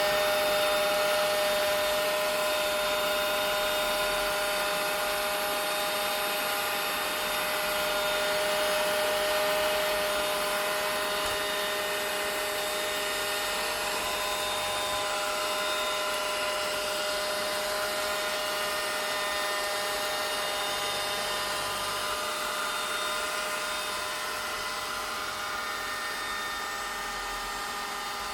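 Vacuum cleaner running steadily: a constant motor whine of several held tones over a rushing air hiss, easing slightly in loudness toward the end.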